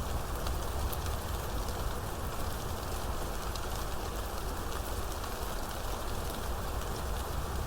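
Steady rain falling, with a constant low rumble beneath it and faint, scattered ticks of individual drops.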